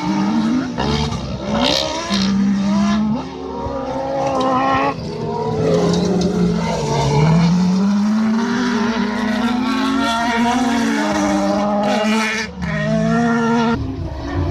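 Autocross race car engines at high revs, their pitch climbing and dropping with repeated short breaks at gear changes and lifts, several engines overlapping.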